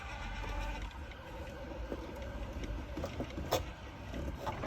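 Small electric motors of a YardForce 260B robot lawnmower whining steadily, cutting off about a second in. A low rumble follows, with two sharp clicks near the end.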